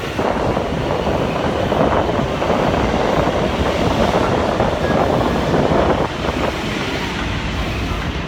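Train running alongside the station platform, a loud steady noise of wheels and motors that eases somewhat about six seconds in.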